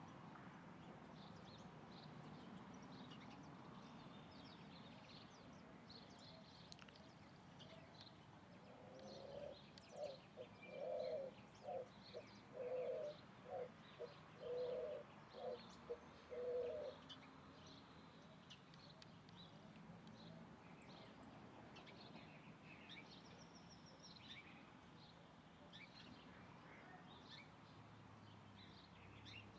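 A dove cooing: a run of about nine low, evenly spaced coos lasting some eight seconds, starting about nine seconds in. Faint high chirps from small birds run throughout.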